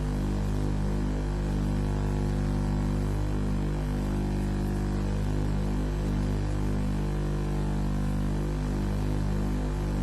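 Steady electrical mains hum with a low buzz, unchanged throughout.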